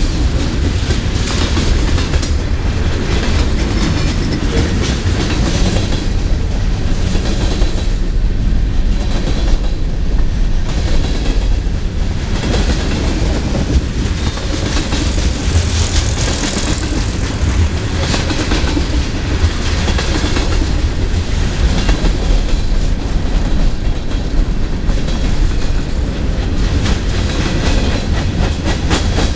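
Freight train of boxcars, tank cars and covered hoppers rolling past: a steady rumble of steel wheels on rail with a continuous clickety-clack of wheels over rail joints.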